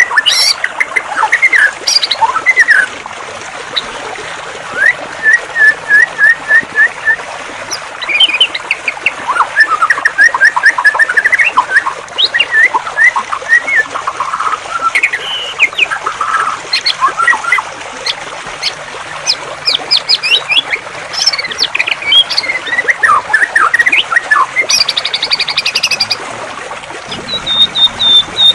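Songbirds singing in rapid series of chirps, trills and whistles over a steady rush of flowing water. Near the end the water rush drops away and a high, fast repeated note comes in.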